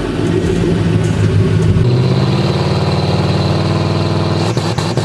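Turbocharged Ford 4.6L two-valve V8 running, then revving up about two seconds in as a steady high whine comes in. Near the end the engine breaks into a rapid, even stutter as it holds against the rev limiter during a two-step test.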